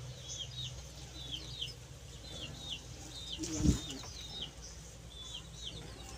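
A small bird chirping again and again in quick pairs of short high notes, over a low steady hum. A single low thump stands out about halfway through.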